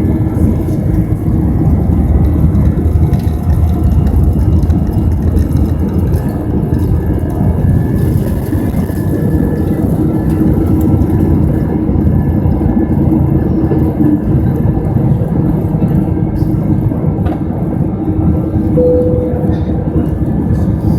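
Airbus A320's jet engines at take-off power heard from inside the passenger cabin: a steady, loud, deep noise with several steady whining tones above it.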